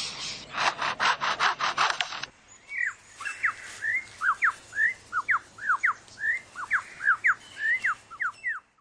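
Superb lyrebird mimicking a chainsaw as a fast train of rasping, sawing pulses. About two seconds in, it switches to a quick run of whistled notes that sweep up and down in pitch, and the sound cuts off just before the end.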